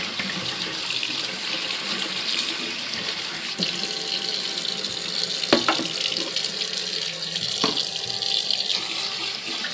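Tap water running steadily into a sink while soaked seeds are rinsed in a strainer, with three short knocks, the loudest in the middle.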